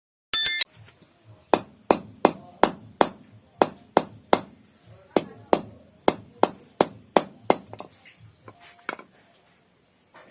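Repeated sharp hand-tool blows, about fifteen at two to three a second, each ringing briefly, as steel wire is worked for a bird trap; a short loud ringing sound opens the stretch and a steady faint high-pitched hum runs behind.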